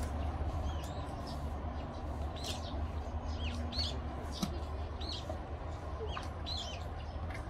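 Small birds chirping, short hooked chirps scattered one or two a second, over a steady low rumble.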